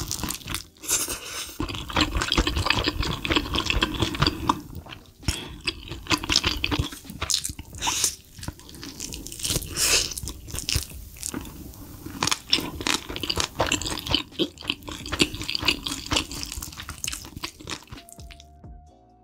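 Close-miked crunching and wet chewing of a mouthful of sauce-coated fried chicken wings, an irregular crackle of bites and chews. About a second before the end it stops and a faint musical note begins.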